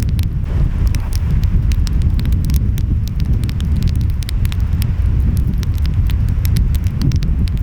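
Wood fire crackling, with many small sharp pops scattered irregularly, over a steady low rumble of ocean waves and wind.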